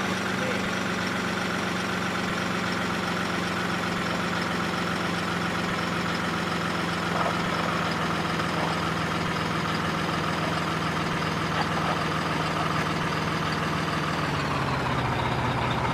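A steady engine hum with an even drone, dropping to a lower pitch about fourteen seconds in.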